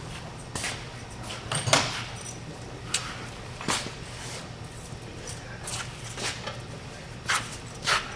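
Metal hand tools and parts clinking and knocking at a truck's front wheel hub: about eight separate sharp clacks spread out, the loudest about two seconds in, over a low steady hum.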